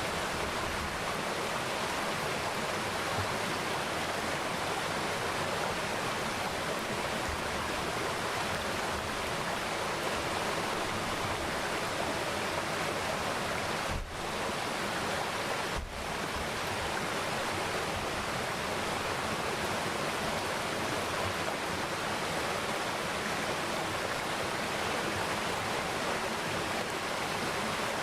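Mountain valley stream running over rocks: a steady, even rush of flowing water. The sound briefly dips twice about halfway through.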